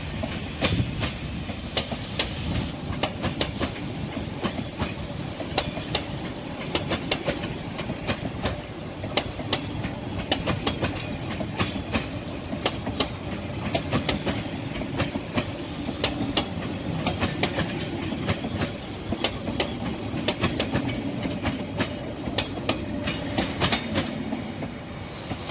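Passenger train rolling past, its wheels clacking rapidly over rail joints over a steady rumble.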